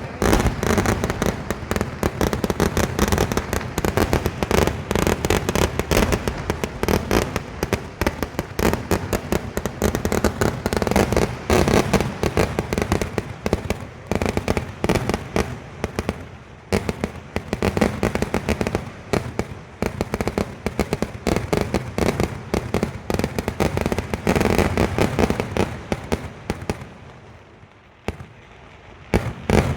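Kerala temple-festival fireworks (vedikkettu): a dense, continuous barrage of cracker bangs, many a second. It dies down about 27 seconds in, then starts again just before the end.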